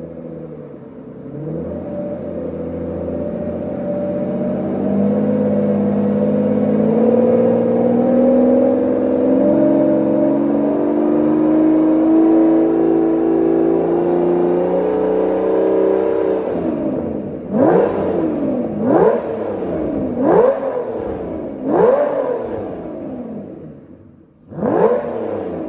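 Aston Martin Vanquish V12 exhaust, with its exhaust valves bypassed. The revs climb slowly and steadily for about sixteen seconds, then drop back. Five sharp throttle blips follow, each rising and falling quickly.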